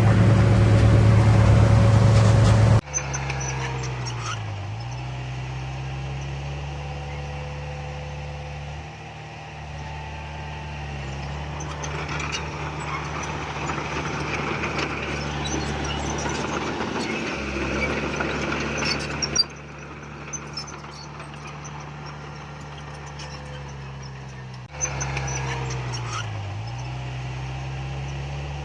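Heavy diesel earthmoving machinery running steadily, its engine note dipping briefly under load twice. The sound changes abruptly a few times where the recording is cut.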